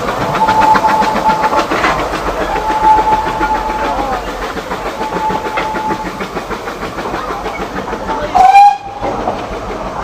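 Narrow-gauge steam train running, heard from aboard: a rapid clatter of wheels and running gear, with a thin high squeal or whistle coming and going in short stretches during the first six seconds. A brief, very loud burst comes about eight and a half seconds in.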